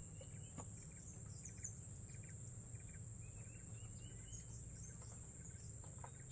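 Forest insects keeping up a steady high-pitched drone, with short chirps repeating about once a second over it.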